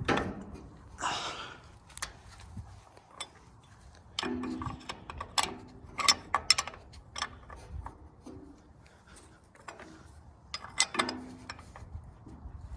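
A metal wrench clinking and clicking on the oil filter cover bolt of a Farmall Super C, scattered sharp clicks with two brief ringing metal clanks.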